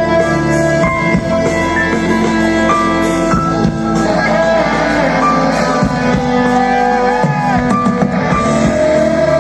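A live rock band playing, electric guitar lines over bass and drums, with a few bent notes near the end.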